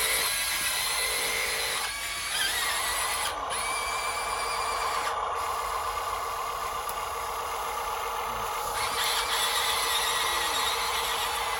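Small electric motor and gearbox of an RC dump truck running with a steady whine, the pitch and level shifting a little around two seconds in and again near nine seconds.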